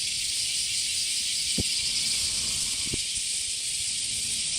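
Dense, steady chorus of summer cicadas, a continuous high hiss. Two soft low thumps come about a second and a half and three seconds in.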